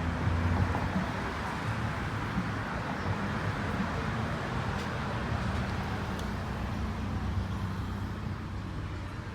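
Car engine running with a steady low hum and road noise, fading slightly near the end.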